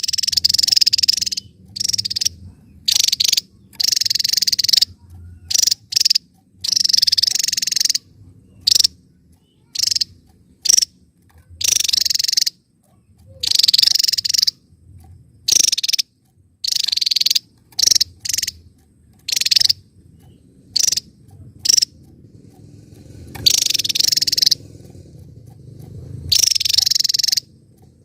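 Javan tesia singing: repeated bursts of high, buzzy trilling, each from a fraction of a second to about a second and a half long, with short pauses between them.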